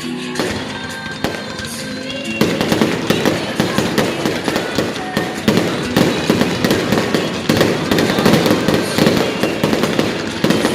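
Fireworks going off in a dense barrage of crackling pops and bangs, many a second. About two seconds in it thickens and gets louder. Music plays underneath at the start.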